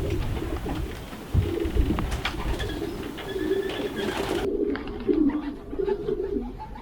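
Racing pigeons cooing, several overlapping wavering coos, with a few short knocks.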